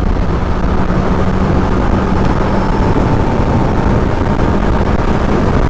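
Kawasaki ZX-10R inline-four sport bike riding at a steady speed. The engine holds an even note under a loud, constant rush of wind and road noise.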